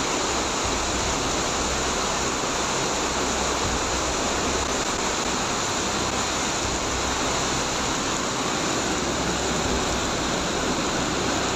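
Torrential rain pouring down in a windstorm, a steady unbroken rush of noise.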